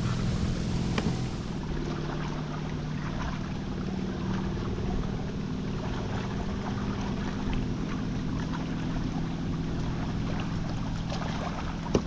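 A boat motor humming steadily on the water, with wind and water noise on the microphone and a single knock near the end.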